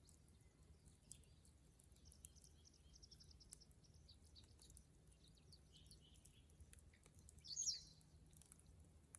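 Faint crackling of a dead-wood bonfire, scattered soft ticks, with small birds chirping; one louder, brief bird call about seven and a half seconds in.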